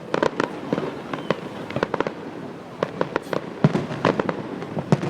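A fireworks display: shells bursting in a quick, irregular string of sharp bangs, at times several a second, with crackle between them.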